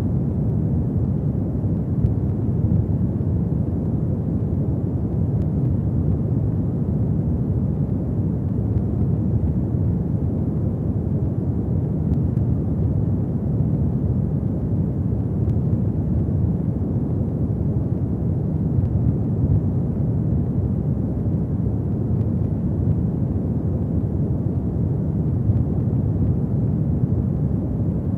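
Fireplace fire burning: a steady low rumble of flames with faint, scattered crackles.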